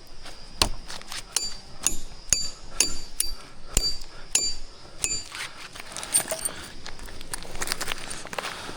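Sharp metallic clinks and taps, irregular, one or two a second, each with a brief high ring; denser scuffing and rustling takes over in the second half.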